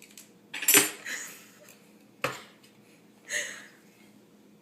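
Clattering knocks of kitchen utensils and containers. The loudest is about a second in, a sharper single knock comes just past two seconds, and a softer one follows about three seconds in.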